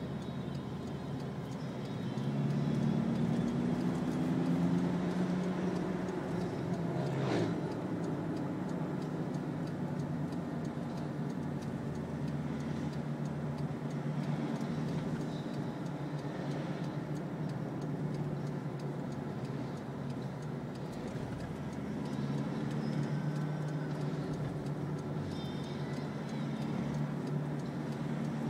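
Vehicle engine and road noise on the move. The engine note rises under acceleration about two seconds in and again later on, and there is one sharp knock about seven seconds in.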